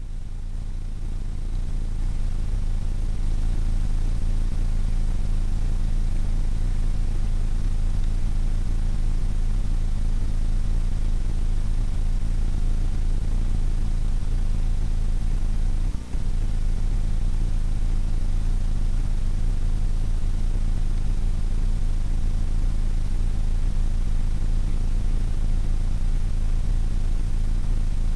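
Model airplane's motor running steadily, heard from the on-board camera, a low drone with wind noise over the airframe. The level builds over the first couple of seconds, and the sound drops out briefly about sixteen seconds in.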